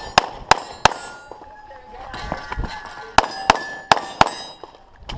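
Gen4 Glock 34 9mm pistol with a six-port compensated barrel firing rapid strings at steel plates, each hit ringing with a clang. A quick run of shots comes in the first second, then a lull of about two seconds, then four more shots about a third of a second apart.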